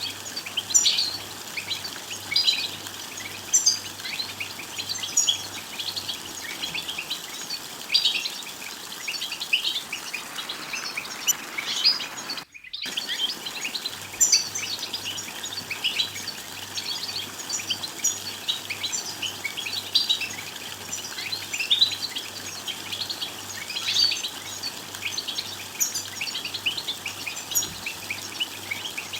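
European goldfinch twittering song: rapid, dense chirps and trills, broken by a brief dropout about twelve seconds in.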